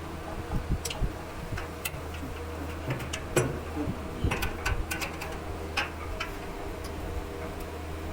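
Irregular sharp clicks and taps of metal parts and hand tools being handled, bunched about halfway through, over a steady low electric hum.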